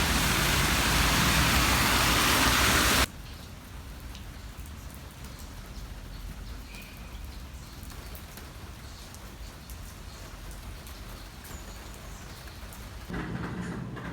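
A loud, steady rushing hiss stops abruptly about three seconds in, giving way to the quieter, steady hiss of falling rain. A louder low hum joins about a second before the end.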